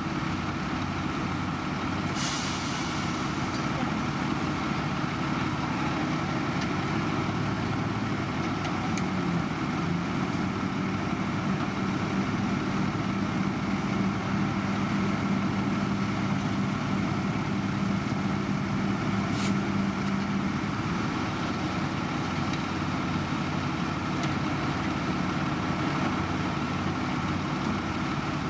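Heavy diesel road-construction machinery running steadily, with a short hiss of air about two seconds in. A higher engine note rises slightly about nine seconds in and holds until about twenty seconds.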